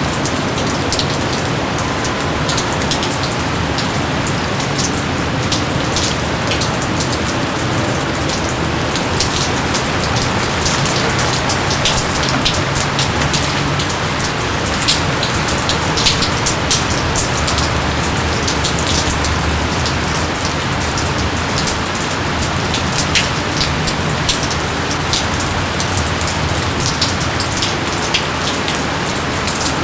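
Steady, loud rainfall, with many separate drops ticking sharply on near surfaces throughout.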